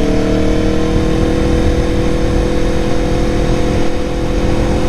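Aprilia Tuono motorcycle engine running at a steady cruise, its note rising slightly, heard from on board with wind rumble on the microphone.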